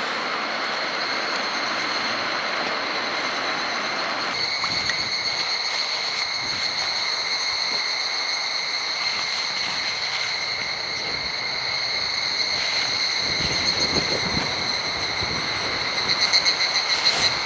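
Strong wind rushing. Over it a steady high-pitched whine with overtones holds throughout and pulses rapidly near the end.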